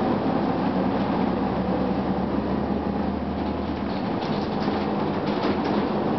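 2004 Gillig Phantom transit bus running, its Cummins ISM diesel engine droning steadily under the rush of the HVAC. Light rattles come in a little past four seconds in.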